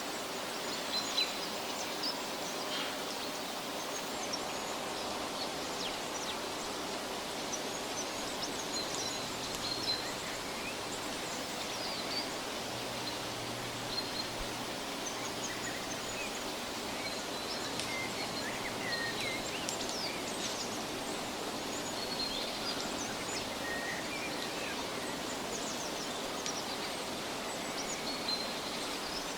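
Woodland ambience: many small birds chirping and calling in short, high notes over a steady background hiss.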